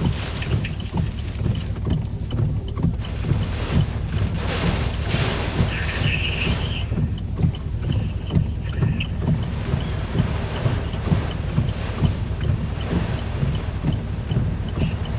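Hurricane eyewall wind buffeting the microphone and vehicle in a constant low rumble, with surges of hiss about four to seven seconds in.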